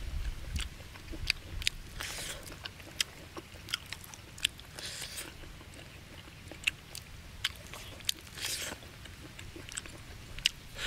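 Close-up sounds of someone eating braised pig's head meat and skin: chewing with many sharp mouth smacks and clicks scattered through, and a few short noisy bursts.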